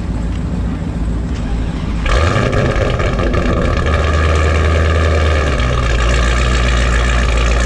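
High-powered drag car's engine running at low throttle, then going to full throttle about two seconds in and staying loud and steady as it makes its pass.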